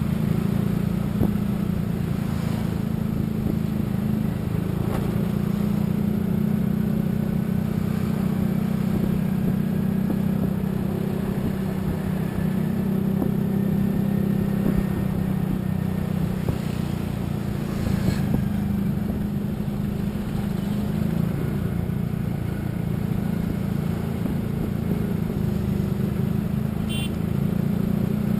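Steady low rumble of a road vehicle travelling at speed, engine and tyre noise, with a brief high chirp near the end.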